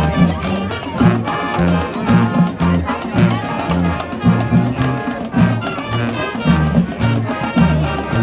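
High school marching band playing, brass over a driving bass line and drums.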